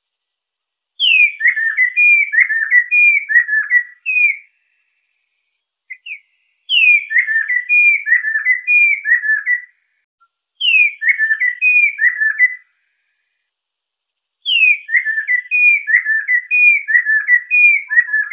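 Lesser necklaced laughingthrush (poksai lesser) singing: four loud phrases of quick, repeated whistled notes, each phrase opening with a high falling note, with short pauses between phrases; the last phrase is still going at the end.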